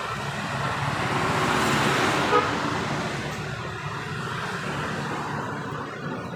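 A road vehicle passing by, its noise swelling to a peak about two seconds in and then slowly fading, with a short beep near the peak.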